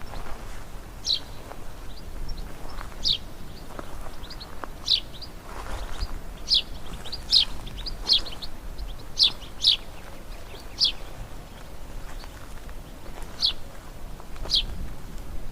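Small songbirds chirping: about a dozen short, high, downward-sliding chirps at irregular intervals, over a faint low rumble.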